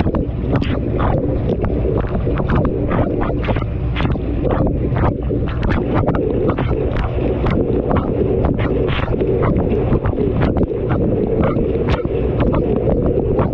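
Washing machine wash cycle heard from a GoPro tumbling inside the drum: a steady churning of water, with frequent knocks and splashes, several a second, as the camera is thrown about.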